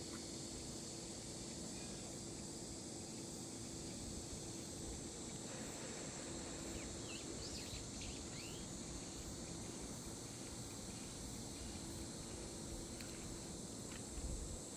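Outdoor nature ambience: a steady high insect drone over a low rumble, with a few short bird chirps about seven to eight seconds in.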